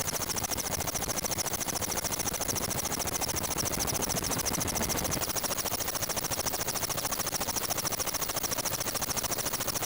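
Ka-27PS helicopter's coaxial rotors and turbine engines running: a fast, steady rotor beat with a steady high whine over it.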